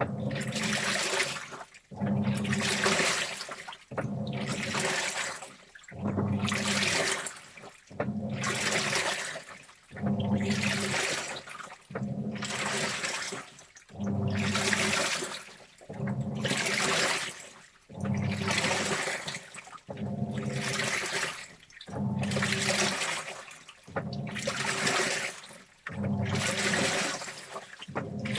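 Washing machine agitating a load of T-shirts in water: a sloshing swish with a low motor hum comes about every two seconds, with a brief pause between each stroke.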